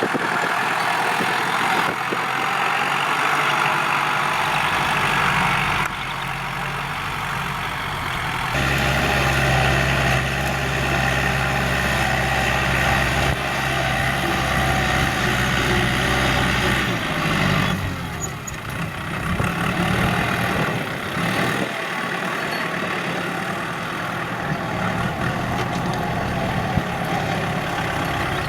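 Kubota L4708SP diesel tractor engine running steadily while ploughing. A deeper, louder hum comes in about a third of the way through and eases off a little past the middle.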